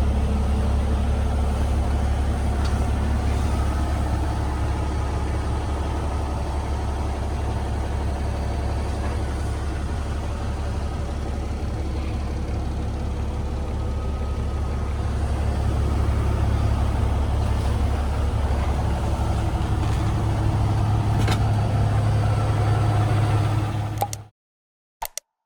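Cummins X15 inline-six diesel engine of a Peterbilt 389 idling steadily with a deep, even hum. The sound cuts off abruptly about a second before the end.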